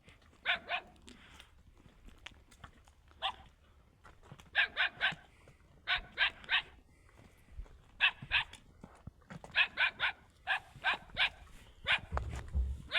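A dog barking repeatedly in quick bursts of two to four sharp barks, with short pauses between bursts. A low rumble comes in near the end.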